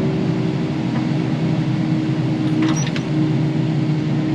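Kubota KX080 excavator's diesel engine and hydraulics running steadily under work, with a constant hum. There is a faint clatter about three seconds in.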